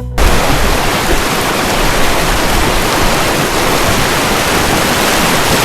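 Fast-flowing mountain river rushing over rocks, a loud, steady wash of water that starts abruptly right at the beginning.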